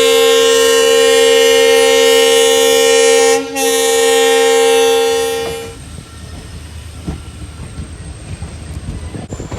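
Diesel locomotive horn sounding a long, loud blast with a brief break about three and a half seconds in; it stops a little before six seconds in, leaving a low rumble from the train.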